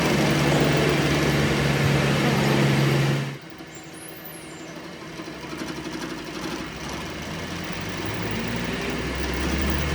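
A workshop machine running loudly with a steady hum, cutting off abruptly about three seconds in; a quieter, lower machine hum then slowly builds.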